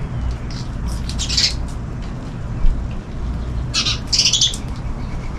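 Small birds chirping in two short bursts, about a second in and again around four seconds in, over a steady rush of rain.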